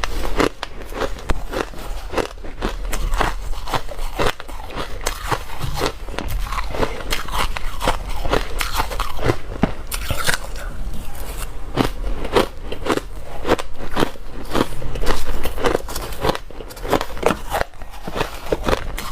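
Close-up biting and chewing of dry, crunchy ice: a quick run of crisp crunches and crackles, several a second, as the ice is bitten and ground between the teeth.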